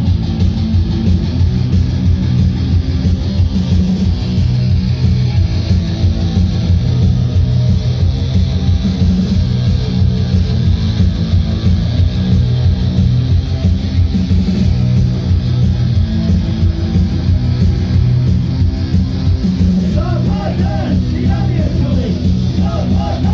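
Live punk band playing an instrumental passage: strummed electric guitar over bass and steady drums, loud and dense. Bending pitched notes come in over the top near the end.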